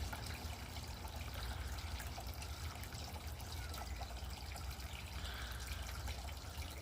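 Steady trickle and splash of water from an aquarium's filter or water return, over a constant low hum.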